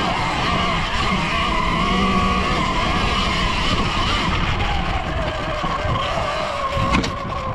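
Surron Ultra Bee electric dirt bike being ridden on a trail: the motor's whine wavers in pitch over a steady rush of tyre and drivetrain noise, with a single knock near the end.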